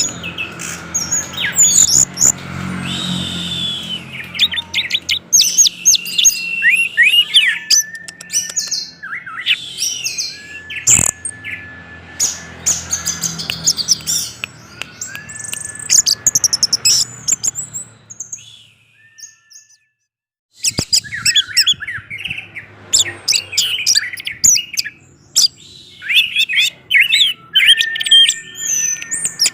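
Orange-headed thrush (anis merah) in full, vigorous song: a fast, varied stream of high twittering and whistled phrases, with a few longer level whistles. The song breaks off for about two seconds about two-thirds of the way through, then resumes.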